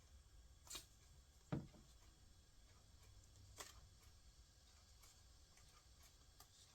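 Near silence broken by faint handling sounds of craft pieces on a table: a light click, a short soft knock about a second and a half in, and another light click a couple of seconds later.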